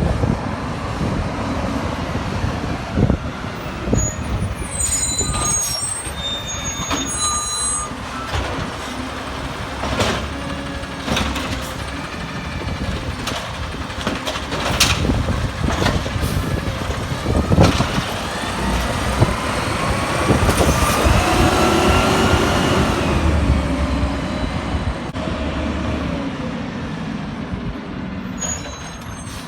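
Peterbilt 320 garbage truck at work: the engine runs throughout, with air-brake hisses, a spell of beeping early on and several sharp bangs. Around two-thirds of the way through, the engine revs up and down.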